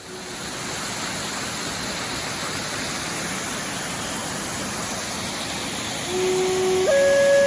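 Waterfall rushing steadily, the water running strong. About six seconds in, a sustained flute melody comes in over it.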